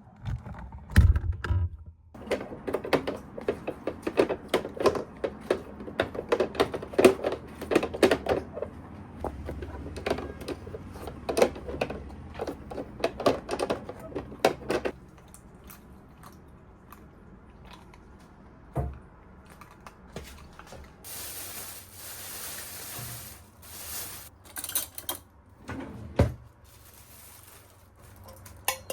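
Rapid clicking and clattering of small hard objects, dense for about the first half, then a few scattered knocks and a hiss lasting a few seconds.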